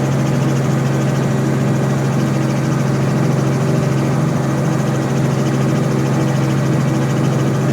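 Helicopter running steadily: a constant deep hum of engine and rotor with even overtones, unchanging throughout.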